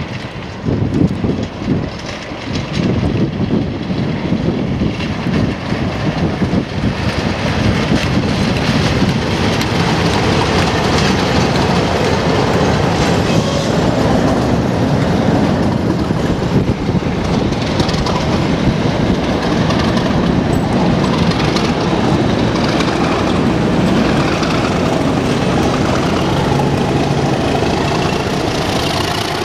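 Train with two DRS Class 37 diesel locomotives passing close by. The leading locomotive's English Electric V12 diesel engine is followed by a steady rumble and clatter of coach wheels on the rails. The trailing Class 37 comes by near the end.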